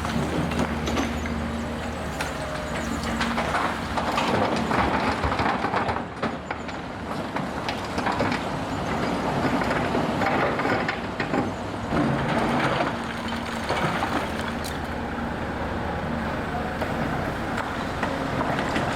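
Demolition of a stone mill: a heavy machine's engine running steadily under continuous crunching, cracking and clattering of breaking masonry and falling rubble.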